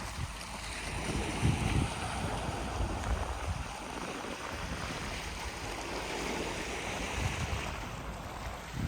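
Sea waves washing onto the shore, a hissing wash that swells about a second in and dies away near the end, with wind rumbling on the microphone.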